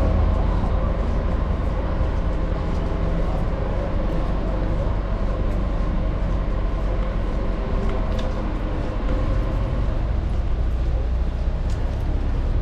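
Steady low rumble of city street traffic, with a large vehicle running close by.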